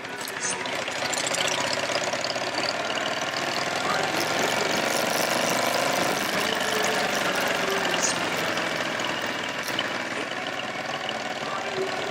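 Motorcycle engine running, its pitch rising for a few seconds as it accelerates.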